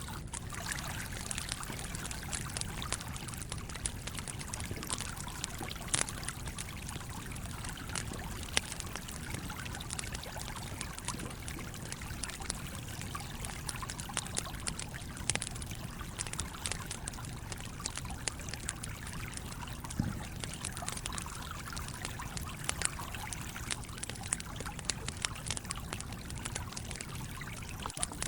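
Campfire crackling, with scattered sharp pops, over the steady running of a stream.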